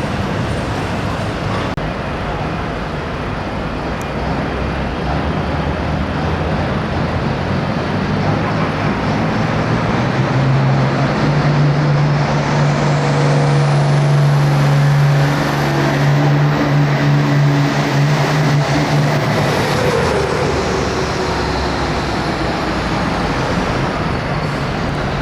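Turbocharged diesel pulling tractor run at full throttle down the track. Its engine note is held steady through the middle while a high turbo whistle climbs, then the engine backs off about twenty seconds in.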